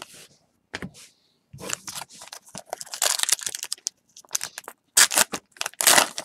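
Foil trading-card pack wrappers crinkling and tearing in irregular crackly bursts as packs are opened and handled.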